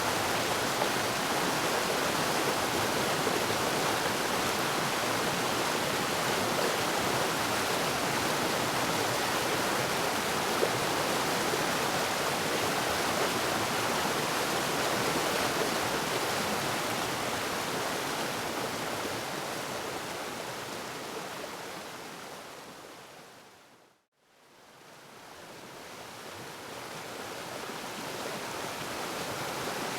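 Waterfall: a steady rush of falling water. Well past halfway it fades down to silence, then fades back in.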